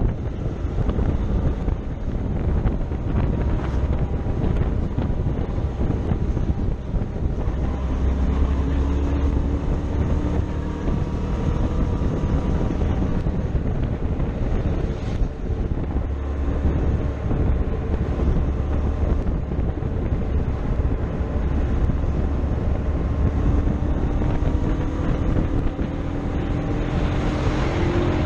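Motorcycle engine running under way with heavy wind noise on the microphone; the engine note rises gently twice as the bike accelerates, once about a third of the way in and again near the end.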